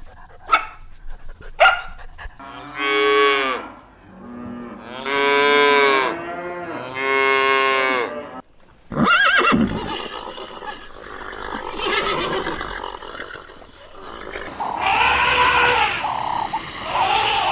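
Cattle mooing: three long calls one after another. After them comes a different, busier stretch of animal sounds with a thin high steady tone.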